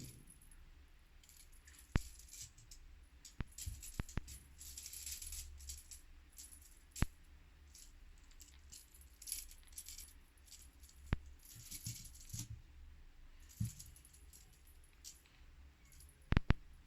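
Scattered sharp clicks and short bursts of high rattling or jingling, like small hard objects being knocked and shaken.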